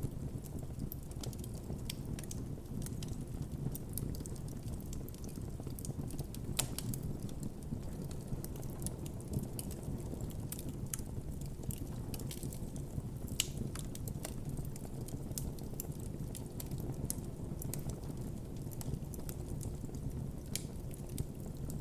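Campfire burning with a steady low rush of flame, and irregular wood crackles and pops throughout, a few sharper pops standing out.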